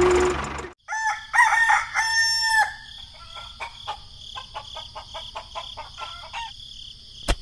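Motor noise cuts off abruptly, then a rooster crows once, followed by a few seconds of chickens clucking over a steady high tone. A sharp knock comes near the end.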